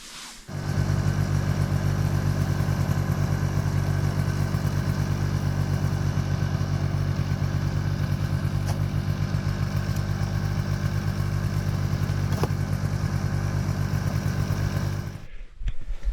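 Ski-Doo Tundra snowmobile engine running at a steady speed with a fast, even pulse. It cuts in abruptly about half a second in and cuts off shortly before the end.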